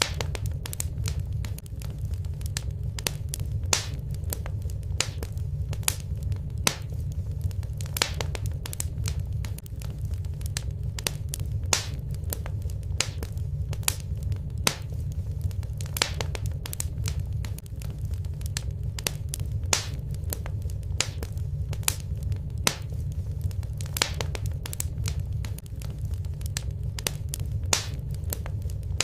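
Wood fire burning in a fireplace: a steady low rush of flame with sharp crackles and pops, several a second at irregular intervals.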